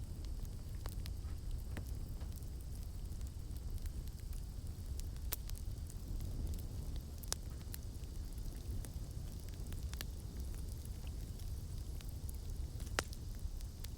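Campfire burning with a steady low rumble of flames and sparse sharp crackles and pops from the burning wood, the loudest pop near the end.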